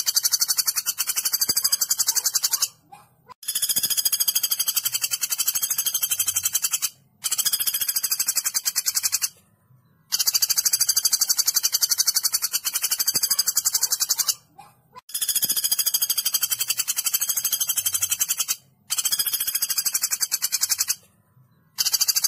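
Woodpecker calling in long, very fast, high-pitched rattling trills, repeated in bouts of two to four seconds with short pauses between them.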